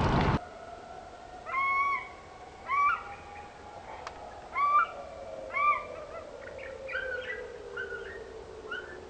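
A bird calling in short repeated hoot-like notes: four loud calls about a second apart, then several fainter ones. A faint steady tone slowly falls in pitch underneath, and a loud noise cuts off abruptly at the very start.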